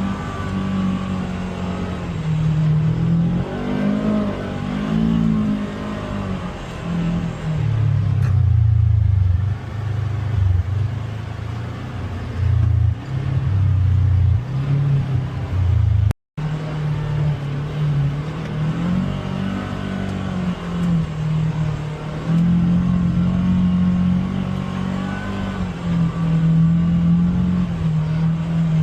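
Polaris Xpedition UTV engine running under changing throttle, its pitch rising and falling over and over. The sound drops out completely for a split second about 16 seconds in.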